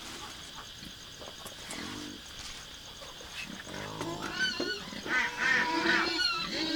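Several ducks calling and quacking at once. The calls grow louder and denser from about four seconds in.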